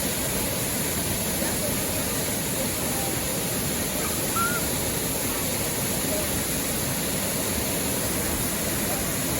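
Steady rush of a river waterfall, an unbroken roar of falling water.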